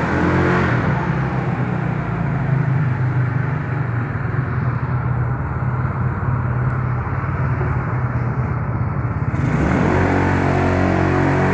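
Yamaha Mio Soul scooter's single-cylinder four-stroke engine running while riding, over a steady road rumble; the engine note rises again near the end.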